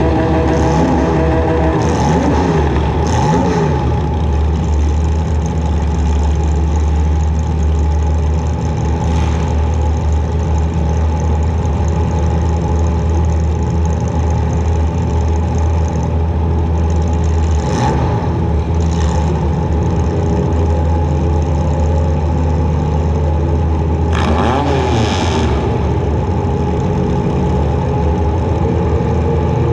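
Demolition derby compact car's engine running loud, revving up and down near the start and again late on, with several short sharp bangs of hits scattered through.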